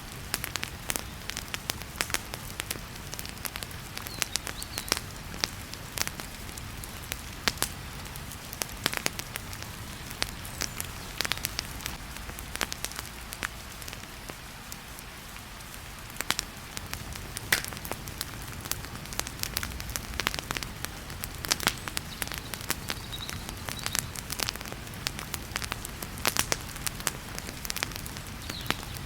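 Wood fire crackling in a fireplace, sharp irregular pops and snaps over a steady hiss of heavy rain.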